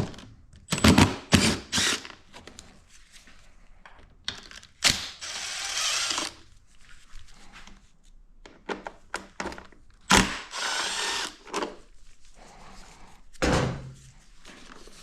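A handheld power tool runs briefly twice, about a second each time, among several knocks and clicks of parts and tools being handled; the loudest knocks come in the first two seconds.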